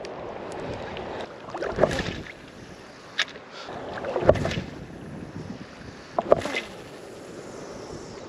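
Strong wind buffeting the microphone over shoreline water, with louder splashing surges about every two seconds and a couple of sharp clicks.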